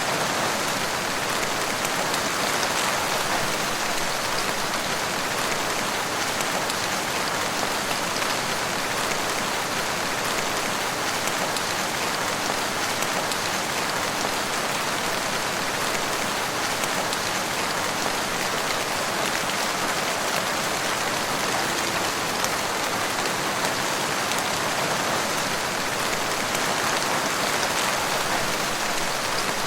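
Steady rain falling in a forest, a constant patter of drops on leaves and ground with no let-up.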